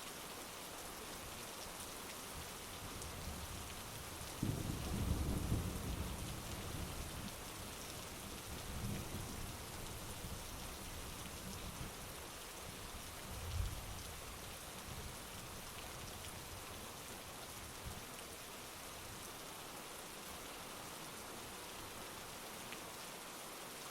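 Heavy rain falling steadily, with a low rumble of thunder rolling in about four seconds in and dying away over several seconds, then a shorter low boom of thunder just past halfway.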